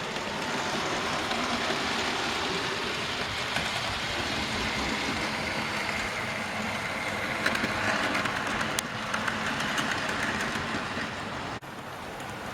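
Model trains running round the layout's track: a steady rumble of wheels on rails and small electric motors, with some light clicks about two-thirds of the way through.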